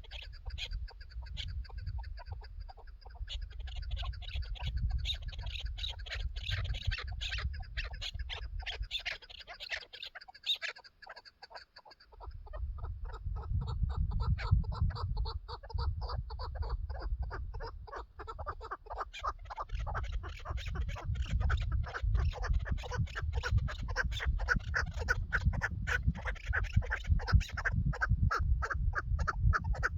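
Chukar partridge calling, a rapid run of repeated chuk notes that grows faster and louder in the second half, over a low rumble.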